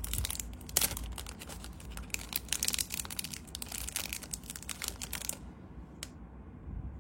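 Packaging crinkling and rustling as a collectible Zippo lighter is handled and unpacked, a dense run of crackles for about five seconds that then stops, followed by a single click.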